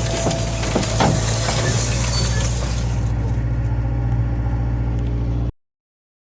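Kubota M9000 tractor's diesel engine running steadily with a few clicks and rattles over it, cutting off suddenly about five and a half seconds in.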